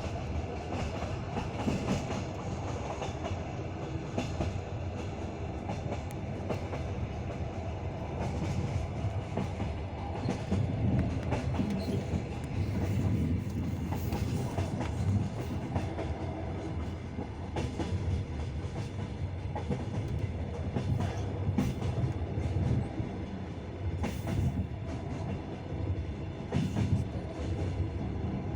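Passenger railway carriage running on the rails: a steady rumble of the wheels with irregular clicks and knocks as they pass over rail joints, heard from inside the carriage.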